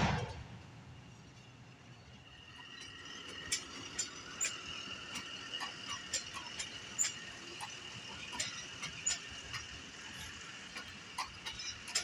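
Passenger train's steel wheels squealing with a steady high-pitched tone as the train rolls slowly into the station, with frequent sharp clicks and clanks. A brief rush of noise at the very start dies away within half a second.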